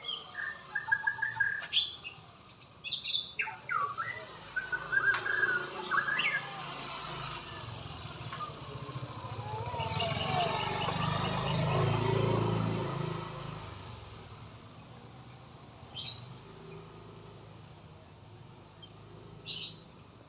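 A murai (white-rumped shama) singing quick whistled phrases and chirps for the first six seconds, then two single sharp calls near the end. Midway, a low rumble swells and fades over several seconds.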